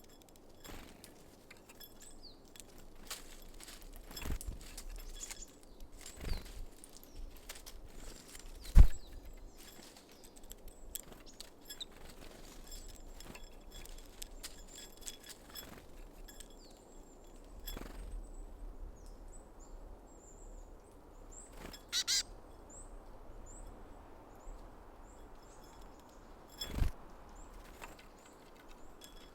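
Small garden birds at a seed feeder, giving short high chirps among scattered sharp taps and knocks of pecking and landing. The loudest knock comes about nine seconds in, with two more near 22 and 27 seconds.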